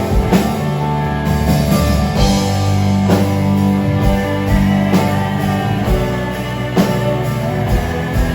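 A live rock band playing: electric guitar and bass with drum kit hits every second or two.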